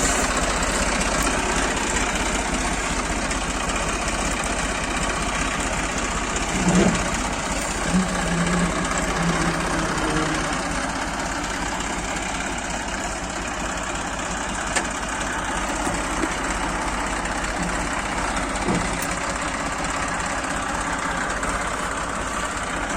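Farm tractor's diesel engine running steadily with a close, clattering firing beat.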